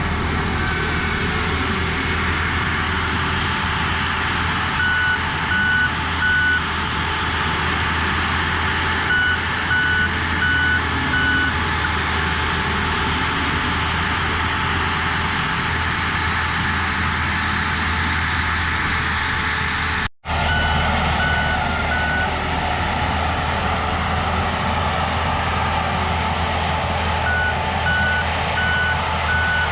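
Tracked excavator carrying a RUT brush cutter head running steadily under load, with its travel alarm beeping rapidly in several stretches. The sound drops out for an instant about two-thirds of the way through.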